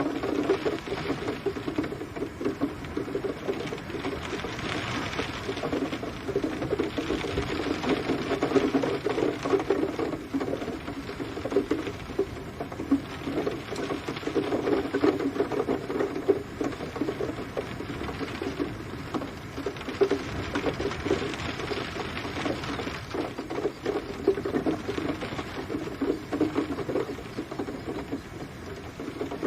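Steady rain pattering: a dense, even crackle of many small drops with gentle swells in level.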